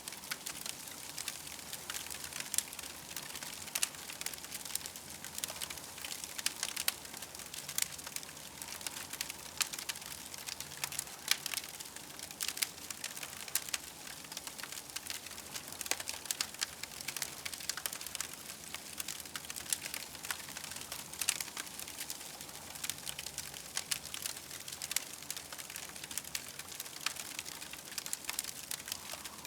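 Campfire crackling steadily, a dense run of small sharp pops and snaps over a soft hiss.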